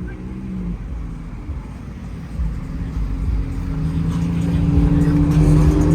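A car engine running at a steady pitch. It gets louder over the second half as the car comes closer.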